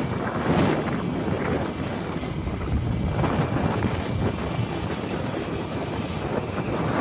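Wind buffeting the microphone, a gusty rumbling noise.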